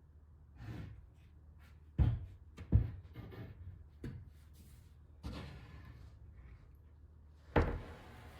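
Knocks and thumps of heavy plywood cabinet panels being handled and set down, over a low steady hum. There are about half a dozen; the loudest come about two seconds in, just under three seconds in, and near the end.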